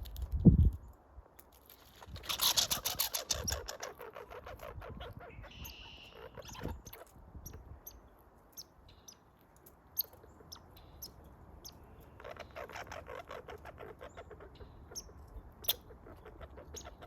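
American red squirrel making rapid trains of ticks: a loud burst of about two seconds, then a fainter run later on, with scattered single clicks between. A short high chirp comes about six seconds in, and a loud low thump comes just after the start.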